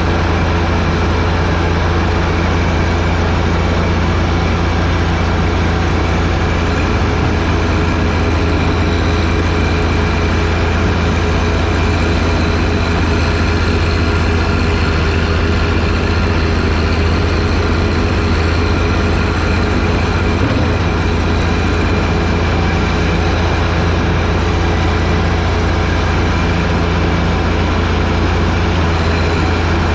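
John Deere 1025R tractor's three-cylinder diesel engine running steadily, powering a front-mounted snowblower, with a strong low hum that holds even throughout.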